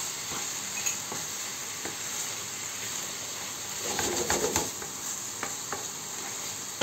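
Chicken keema sizzling steadily in a frying pan while a wooden spatula stirs and scrapes it, with a run of louder scrapes about four seconds in. The sizzle is the last water cooking off the filling.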